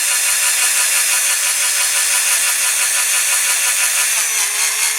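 Small power drill running with a steady high whine as a 2.5 mm bit drills down into a diecast model's rivet post; the pitch sags a little about four seconds in as the bit takes load.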